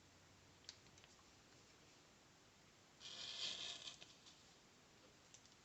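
A sticker being peeled off its backing sheet: a brief papery tearing rasp lasting about a second, a few seconds in, after a couple of faint paper ticks.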